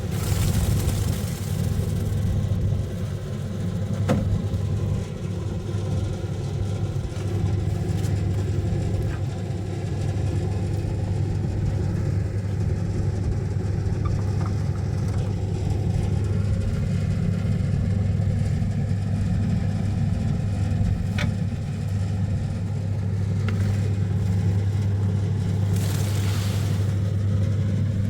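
An engine running steadily with a low hum, with a few sharp clicks and two short hissing rushes, one at the start and one near the end.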